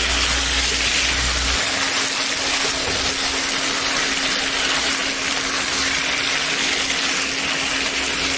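Beef slices sizzling in a thick spiced sauce in a wok as it reduces with a little oil and is stirred with a wooden spatula: a steady frying hiss. A steady low hum runs underneath.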